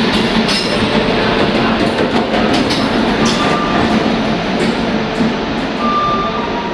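Duronto Express passenger coaches rolling along the platform as the train pulls in: a loud, steady rail rumble with scattered clacks of wheels over rail joints.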